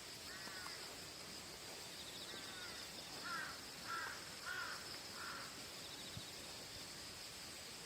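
A bird gives about six short, harsh calls in a loose series, over a steady high-pitched insect chorus.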